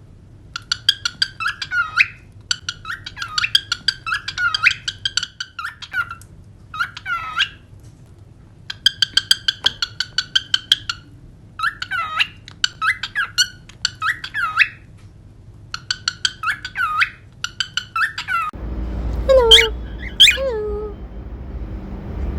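Cockatiel chirping and warbling in short bursts of rising and falling whistles, some as rapid chattering trains. Near the end a low background rumble comes in.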